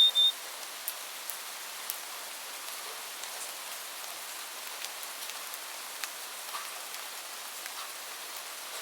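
Steady rain, a soft even hiss with scattered drops ticking. Right at the start, a bird's clear whistled call, falling in steps, comes to an end.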